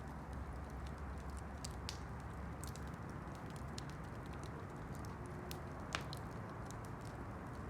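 Wood campfire crackling steadily, with scattered sharp pops and snaps and one louder pop about six seconds in.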